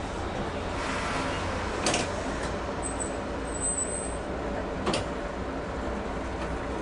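Inside a Toyohashi Railway streetcar standing at a stop: steady low hum from the tram's equipment, with two sharp clacks about two and five seconds in and a brief high chirp between them.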